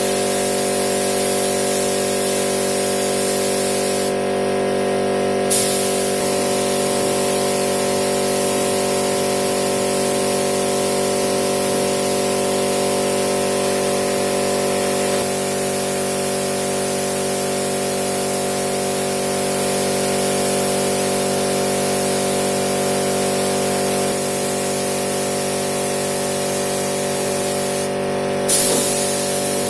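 Compressed-air spray gun hissing as epoxy primer is sprayed, over a steady machine hum. The spray cuts out twice, briefly about four seconds in and again near the end, and restarts each time.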